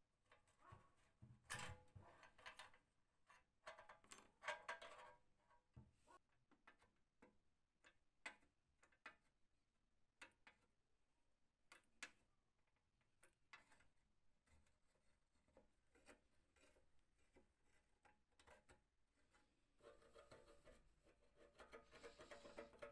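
Faint, scattered clicks and knocks of hand work, with a few short busier stretches of handling noise.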